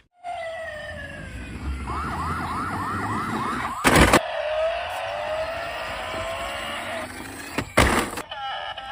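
Electronic siren wailing in gliding tones, with a fast warble of about five quick cycles a couple of seconds in. Two loud sharp knocks break in, one about midway and one near the end.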